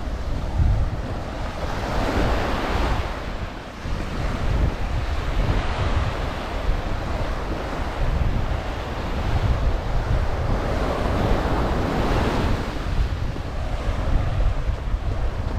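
Ocean surf washing onto the beach, swelling twice as waves break, with wind rumbling on the microphone.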